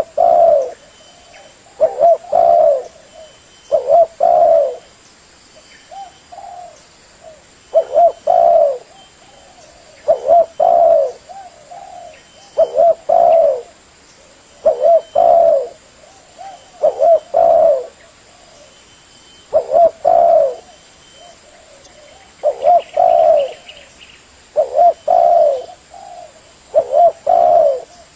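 Spotted dove (tekukur) cooing, repeating its short multi-note coo phrase about every two seconds.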